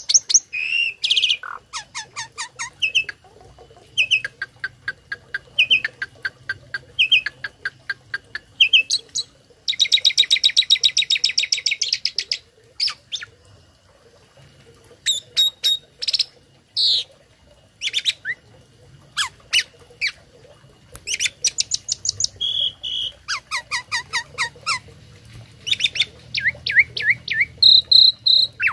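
Tame starling (jalak) singing a long, varied song of rapid repeated chirps and whistled notes, with a fast rattling trill about ten seconds in; the song is filled with imitations of other birds' calls.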